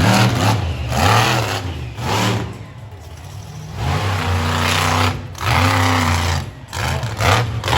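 Monster truck engine revving hard in repeated throttle bursts, rising and falling, with a brief easing off in the middle.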